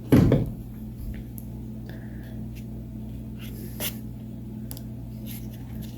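Faint clicks and light handling of paper being pressed and glued onto a craft, over a steady low hum. A short low sound, a bump or breath, right at the start.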